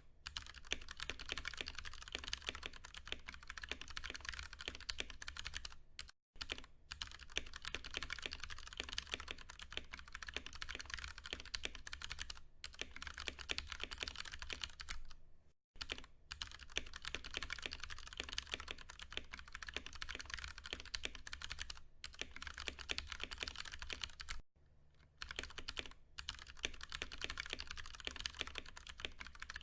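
Fast, continuous typing on a Ducky One 2 Mini mechanical keyboard with Cherry MX Brown switches: a dense run of key clacks, broken by three brief pauses, about a third, half and four-fifths of the way through.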